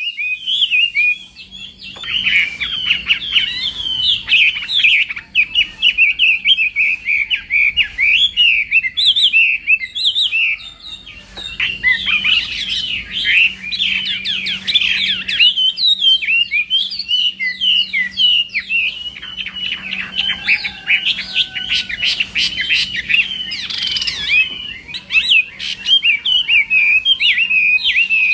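Chinese hwamei (melodious laughing thrush) singing a loud, rapid, unbroken stream of varied whistled notes and trills, pausing only briefly near the start.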